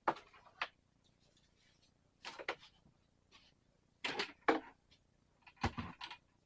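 Scattered short knocks and rattles in four brief clusters, one every second or two, with quiet in between.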